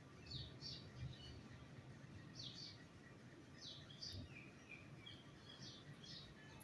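Small birds chirping faintly: short high chirps that slide downward, mostly in quick pairs, repeating every second or two, with a few lower notes near the end, over a steady low background rumble.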